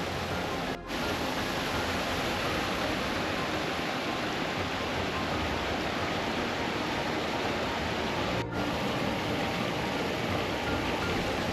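Steady rush of water from a moorland stream and waterfall, briefly dropping out twice.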